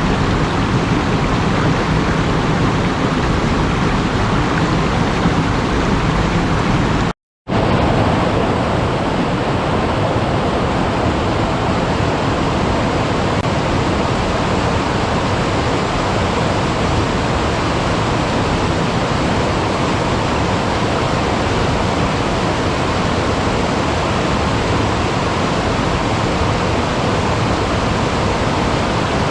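Steady rush of running water from a stream or waterfall, breaking off for a moment about seven seconds in before carrying on.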